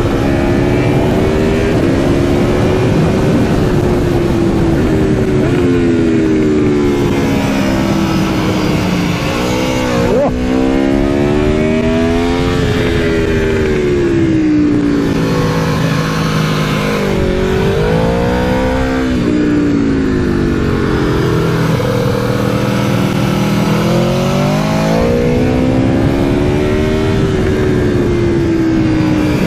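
Aprilia Tuono V4's 65-degree V4 engine under hard riding, heard onboard: the revs climb through the gears and fall away repeatedly, dropping sharply with quick throttle blips about 10, 17 and 25 seconds in, as the bike brakes and downshifts for corners.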